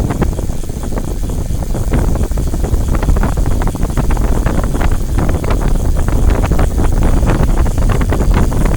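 Heavy wind rumbling on the microphone while riding a moving vehicle, with steady rattling and clicking.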